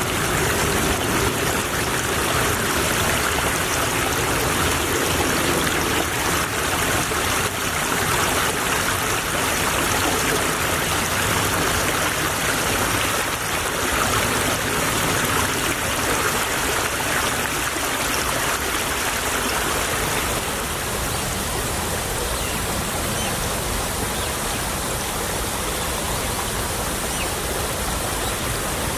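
Small stream trickling and running over stones in a steady wash of water sound. About two-thirds of the way through it turns slightly quieter and more even.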